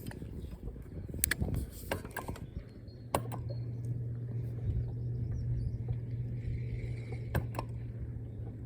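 A boat's electric trolling motor humming steadily, switched on with a click about three seconds in and off with a click about seven seconds in. A few sharp clicks and rattles of handled gear come before it.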